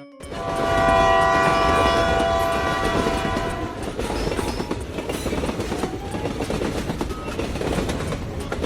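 Train horn sounding a steady chord for about three and a half seconds over the rumble of a moving train. The rumble runs on after the horn stops.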